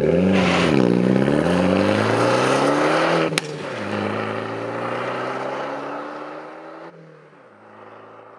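Alfa Romeo MiTo's engine and exhaust revving: the note dips and then climbs. About three seconds in there is a sharp click and the sound drops to a quieter, steadier run that fades away, stepping down in pitch twice near the end.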